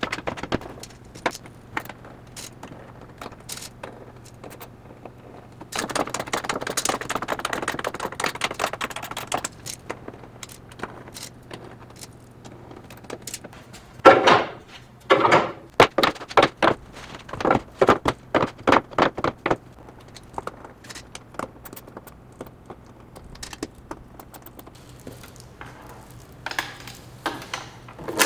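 Assembly noises of tools and metal parts being handled: scattered clicks, a stretch of quick rattling clicks, then a run of louder knocks and clatter.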